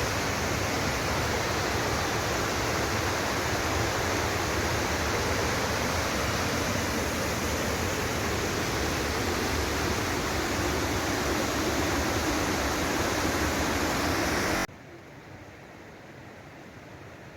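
Loud, steady rush of falling and fast-flowing water on the River Tees at the Low Force waterfall. Near the end it cuts abruptly to a much quieter, even hiss.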